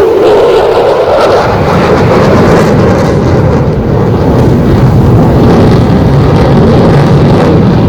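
Loud, steady jet engine noise from a single-engine F-16 Fighting Falcon fighter flying its air show demonstration.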